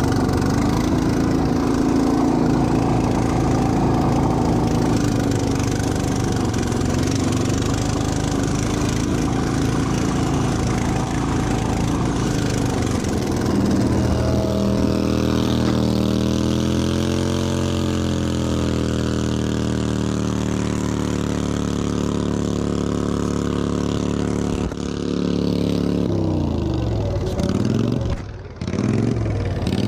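Riding-lawnmower engines running under load, their pitch rising and falling as the throttle changes. Near the end, engine pitches sweep quickly up and down as the mowers rev and slow.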